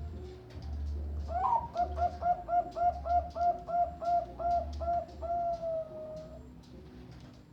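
Bangkok-strain perkutut (zebra dove) singing: a rapid run of about a dozen short, evenly paced coo notes, about three a second, ending in one longer drawn-out coo. A low hum comes and goes underneath.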